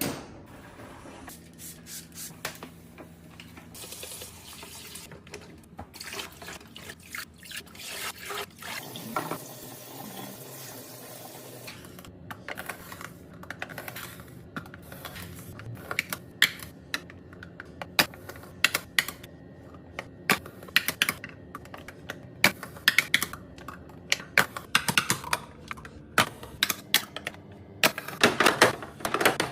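Food packages and containers being handled and set down while a fridge is restocked: a run of quick taps, clicks and knocks, getting busier and louder in the last couple of seconds.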